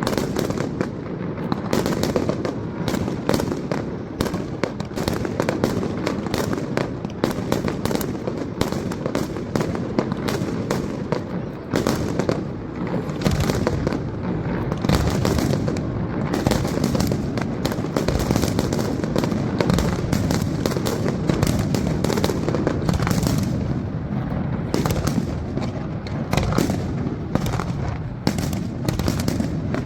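Fireworks display: a rapid, continuous barrage of cracks and bangs from bursting aerial shells over a steady low rumble.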